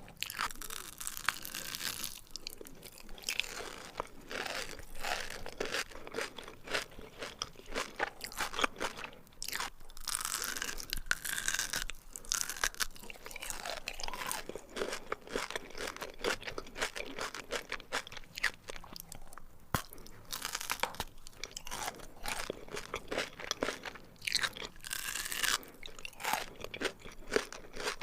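Close-miked crunching and chewing of Dubai chocolate, a chocolate bar filled with pistachio cream and crisp kataifi pastry. Dense, rapid crackling bites and chews, with a few wet mouth sounds.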